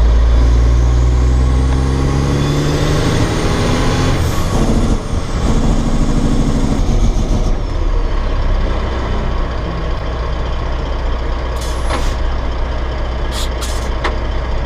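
Caterpillar C15 inline-six diesel engine of a dump truck revving up, its pitch and a high turbo whistle rising over the first few seconds, then dropping about four seconds in and settling into steadier, lower running. A few short sharp clicks near the end.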